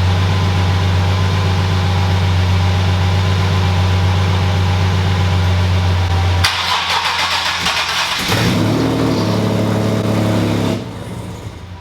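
A steady low hum. About six and a half seconds in, a sudden rush of noise gives way to a car engine cranking and catching, its pitch stepping about for a couple of seconds before the sound drops away near the end.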